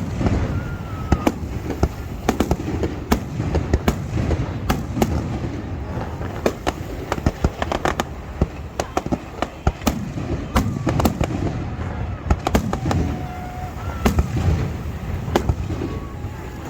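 Aerial fireworks display: a dense, irregular run of sharp bangs and crackling reports over a low booming rumble, with the odd short whistle.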